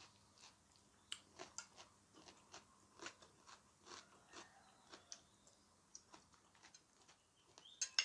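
A person chewing crunchy food close to the microphone: an irregular run of small, soft crunches and mouth clicks, about two or three a second.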